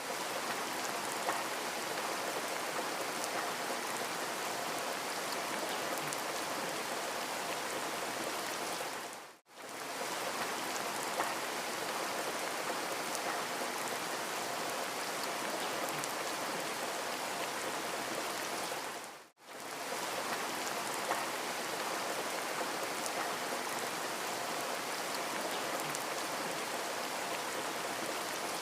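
Steady rain falling on a surface, an even hiss with occasional drop ticks. It fades out and back in for a moment twice, about every ten seconds, where the recording loops.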